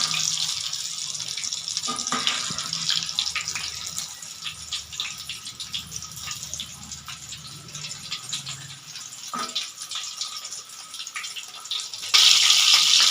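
Battered chicken pieces deep-frying in hot oil on a medium flame: a steady crackling sizzle with a few utensil knocks, suddenly louder near the end.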